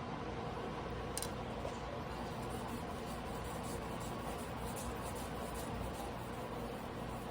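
Faint, repeated scraping strokes of a carbon-steel knife blade being hand-sharpened on a whetstone, over a steady low hum, with one sharper click about a second in.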